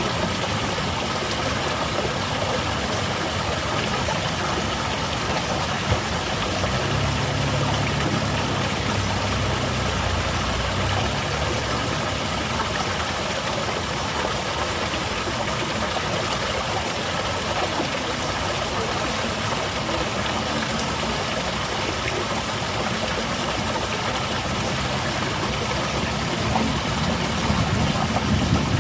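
Garden waterfall splashing steadily, a continuous even rush of falling water. A low hum rises under it for a few seconds about a quarter of the way in and again near the end.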